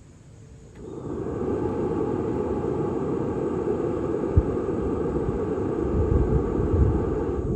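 Leaf blower blowing air through a clothes dryer vent duct, clearing it out: it starts about a second in, runs steadily with a few low thumps, and stops abruptly at the end.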